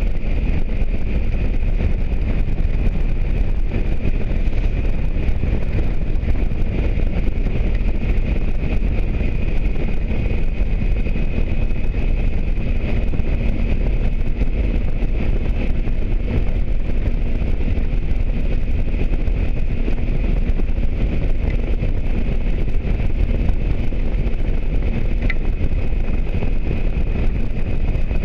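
Motorcycle riding at a steady speed: a constant low rumble of engine, road and wind on the microphone, with a thin steady whine above it.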